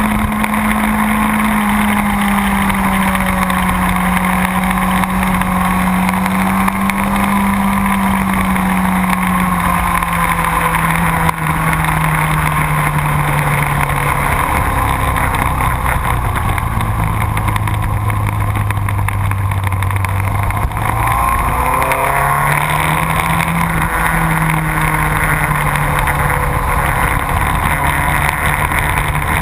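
Sport motorcycle engine running at speed on a race track under a steady noisy rush. Its note slowly drops and is lowest just past the middle, then climbs again about two-thirds of the way through as the bike accelerates.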